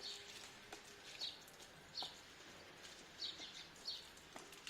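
Bird chirping outdoors: short, high chirps repeated irregularly, some in quick pairs, with faint clicks between them.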